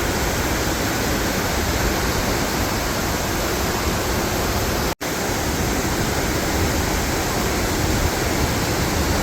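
Waterfall rushing: a steady, dense wash of falling water. It cuts out for an instant about five seconds in, then resumes unchanged.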